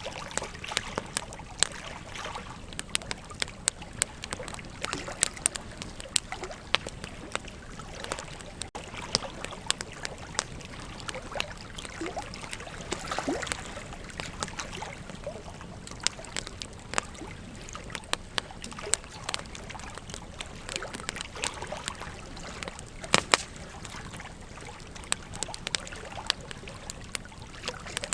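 Wood campfire crackling, with frequent sharp pops and snaps and a few louder cracks, over a steady rush of running river water.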